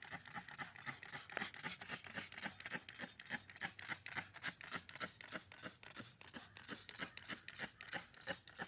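A trigger spray bottle squeezed rapidly and repeatedly, about four to five short hissing squirts a second, spraying degreaser or soapy water onto the caked grass under a mower deck.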